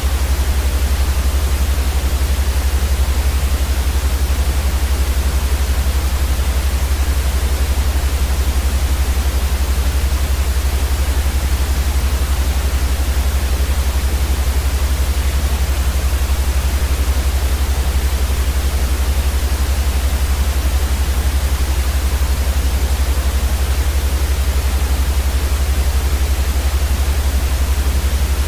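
Steady, unchanging white noise: an even hiss across the whole range, with a strong deep hum underneath.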